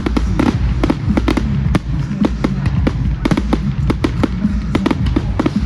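Fireworks going off in a display: a rapid string of sharp bangs and crackles, several a second, over a low rumble.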